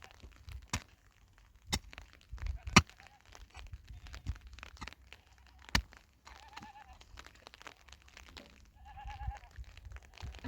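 Livestock bleating twice, each a wavering call, the second about two and a half seconds after the first. Scattered sharp knocks and taps come before them.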